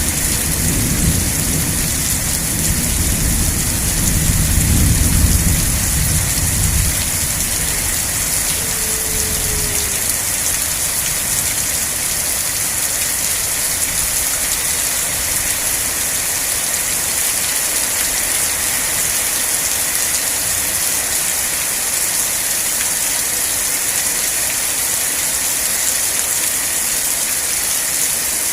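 Steady heavy rain hissing, with a low rumble of thunder in the first several seconds that dies away.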